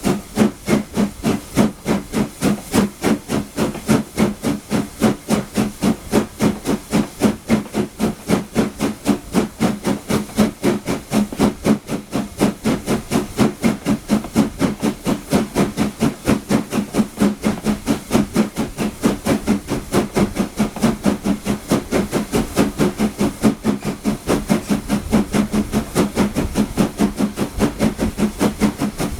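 LSWR S15 No. 506, a two-cylinder 4-6-0 steam locomotive, working under steam: a rapid, evenly spaced exhaust beat with steam hiss, over a steady low hum.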